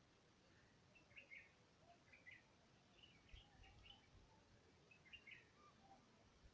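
Faint bird chirps: short, high calls in small clusters every second or so, against a near-silent background with a few soft low thumps.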